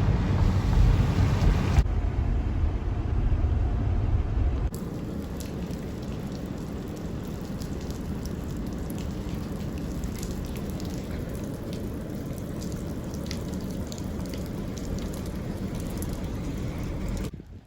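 Melting ice dripping and pattering off ice-laden trees, a steady hiss scattered with small drip ticks. A heavier low rumble of wind or road noise covers the first few seconds, then drops away sharply about four and a half seconds in.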